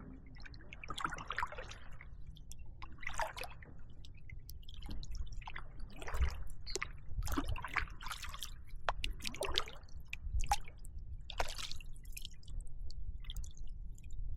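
Water lapping and dripping around a kayak, with small irregular splashes.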